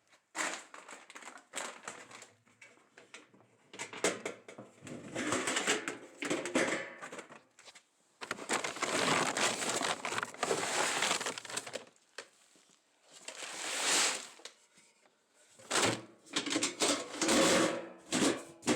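Crunching of ice-crusted snow underfoot, in irregular stretches, the longest lasting about four seconds around the middle.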